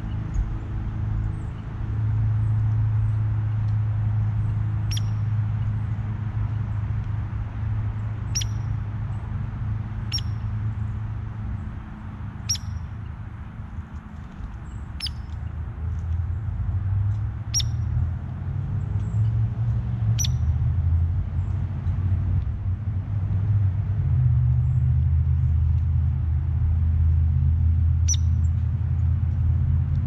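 A bird's short, sharp high chip call repeated about every two and a half seconds, around nine times, over a steady low rumble.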